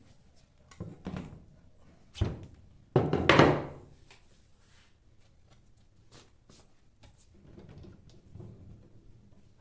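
Handling knocks and thunks as parts are taken off and set down, with a sharp knock a little after two seconds and a louder, longer clatter about three seconds in, then quieter handling noise.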